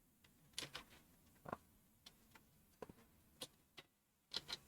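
Near silence broken by faint, irregularly spaced clicks, about eight of them, a pair near the end the loudest.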